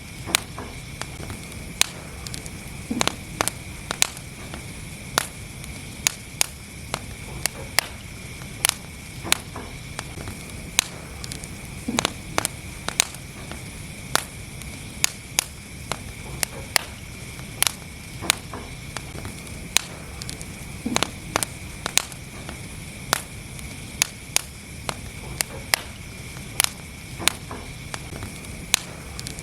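Wood fire in a fireplace crackling: frequent sharp pops and snaps, several a second, over a steady hiss, with a deeper pop about every nine seconds.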